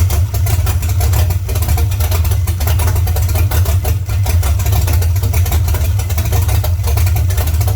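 Blueprint Engines 400 cubic-inch small-block Chevy V8 idling through open headers, a loud, uneven cam idle with a choppy pulse.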